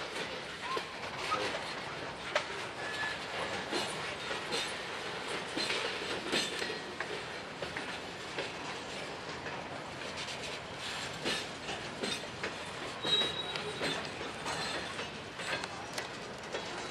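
Norfolk Southern freight train rolling toward the crossing, its wheels clicking over the rail joints with steady running noise, and brief faint squeals from the wheels a few seconds in and again near the end.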